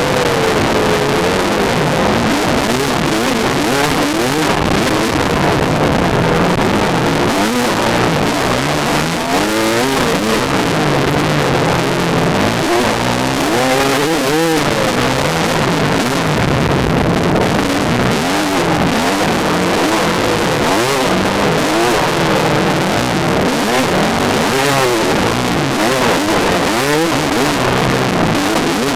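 Yamaha dirt bike engine revving up and down over and over as the bike is ridden along a trail, loud and close, with a dense rushing noise underneath.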